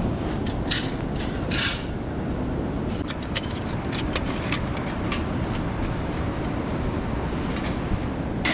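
Steady rush of a mountain stream, with scattered brief clicks and scrapes of close handling and a short rustle about one and a half seconds in.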